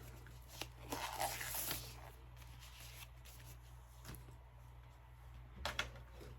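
Quiet handling sounds: a brief rustle about a second in and a few soft clicks.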